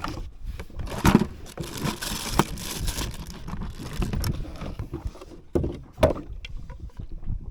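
Irregular knocks and scraping, rustling handling noises aboard a small open fishing boat on the water, with two louder knocks about a second in and near six seconds in.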